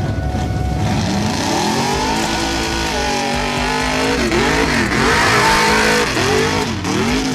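Truck engine revving hard: the pitch climbs over the first couple of seconds, then drops and rises in several quick revs, with a hiss over it.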